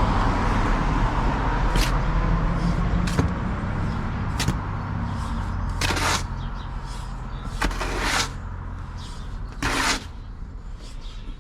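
Shovel scraping and turning dry sand and cement mix in a bath, in repeated strokes a second or two apart, with a low steady rumble that fades through the first eight seconds or so.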